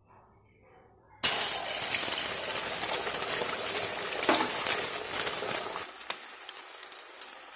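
Beaten egg frying in hot oil in a wok: a loud sizzle that starts abruptly about a second in and dies down somewhat near the end, with a couple of sharp knocks.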